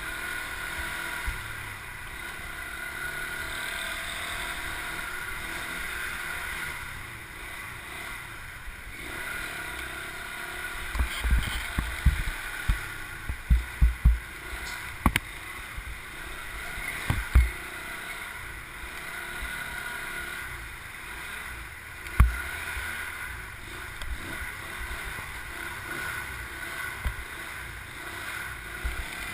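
Motorbike running at riding speed, with wind noise on the microphone and scattered low thumps, several close together about halfway through.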